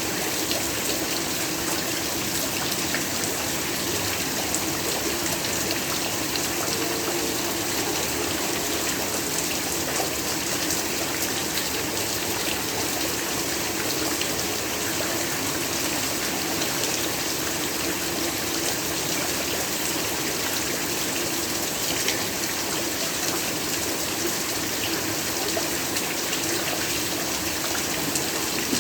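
Steady heavy rainfall: a dense, even hiss of rain with faint scattered drop ticks.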